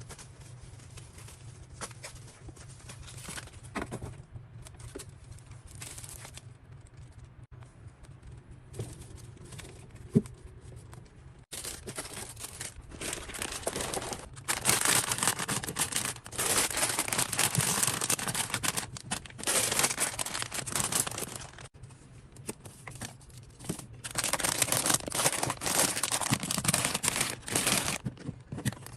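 Small taps and clicks of things being handled, then from about halfway long spells of crinkling and tearing of plastic packaging.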